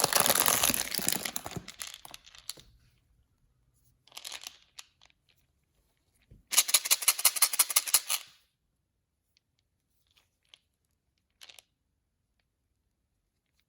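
Blind-bag toy packaging being torn open and crinkled by hand. A crackly tear fades out over the first two seconds or so, a short rustle comes about four seconds in, and a second loud tear comes about six and a half seconds in. A few light taps follow near the end.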